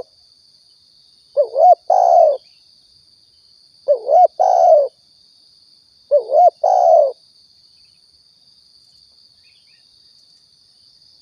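Spotted dove (tekukur) cooing: three phrases about two seconds apart, each a short note followed by a longer, rolling coo, then a pause near the end.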